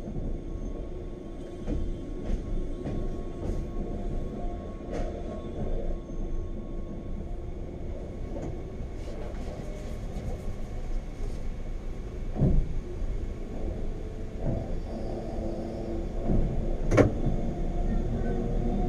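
Wengernalpbahn rack-railway train running: a steady low rumble with a faint motor hum and scattered small clicks and rattles. Two sharper knocks stand out, one about halfway through and a louder one near the end.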